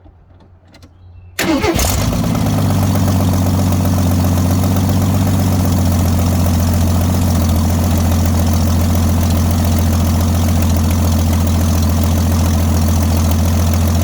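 AMC 258 inline-six of a 1979 Jeep J10 starting about a second and a half in: it catches almost at once and settles into a loud, steady idle. This is a long-dormant engine coming back to life, running on choke.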